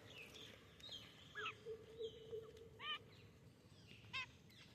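Faint bird chirping: a few short, quick chirps spaced about a second apart.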